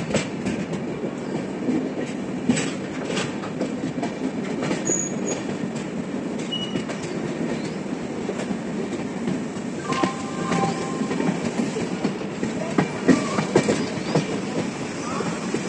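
Express train rolling into a station, heard from an open coach door: a steady rumble of wheels on rails with scattered clacks over rail joints, and a brief squeal about ten seconds in.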